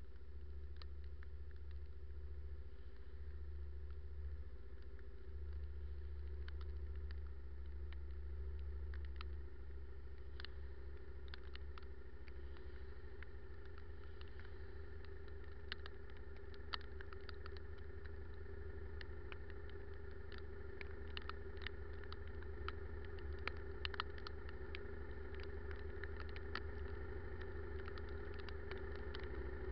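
Motorcycle engine running steadily under a low rumble, with scattered sharp ticks that come more often from about a quarter of the way in.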